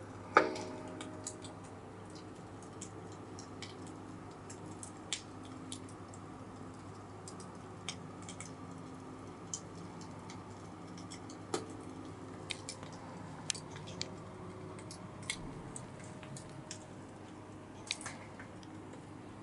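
Scattered small clicks and ticks over a steady low room hum. A sharper knock about half a second in rings briefly, and a weaker one follows about eleven seconds later.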